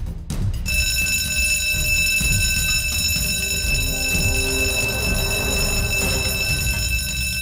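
Fire station alarm sound effect: a steady electric alarm ringing, starting just under a second in.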